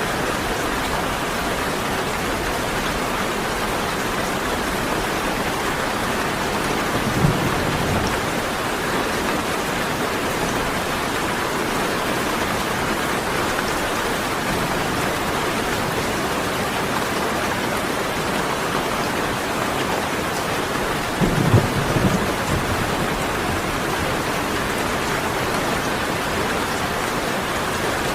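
Steady heavy rain falling, with two short low rumbles of thunder, one about a quarter of the way in and a stronger one about three-quarters of the way through.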